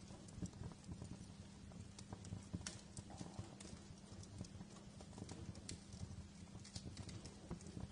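Wood fire crackling in a fireplace: faint, irregular snaps and pops over a low, steady rumble.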